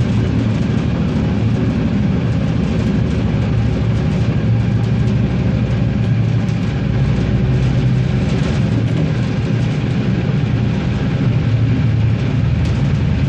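Regiosprinter diesel railcar running along the line: a steady low engine hum with wheel and rail noise and a few faint clicks.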